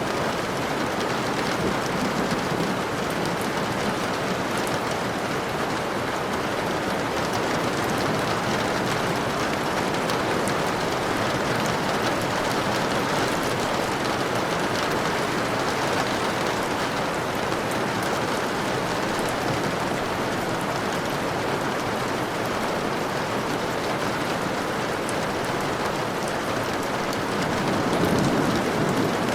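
Steady rainfall pattering on a surface, an even wash of rain noise. A brief low swell rises near the end.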